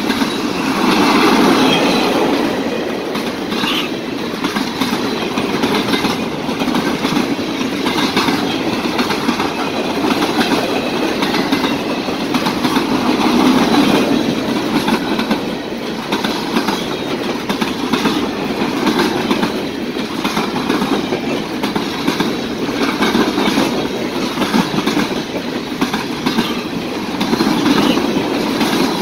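Freight train boxcars rolling past close by at speed: a steady rumble of steel wheels on the rails, with a run of clicks as the wheels cross the rail joints.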